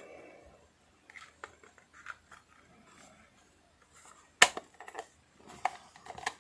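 Plastic housing of an electric lint remover being handled and fitted back together: light taps and rattles, one sharp click about four and a half seconds in and a few more small clicks near the end.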